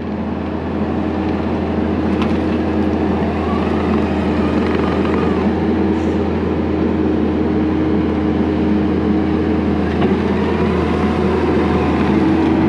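Diesel engine of heavy earthmoving equipment running steadily under load, with a low hum and a held engine note.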